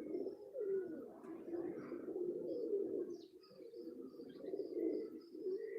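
A flock of high-flyer pigeons cooing continuously, many calls overlapping, with small birds chirping briefly and repeatedly above them.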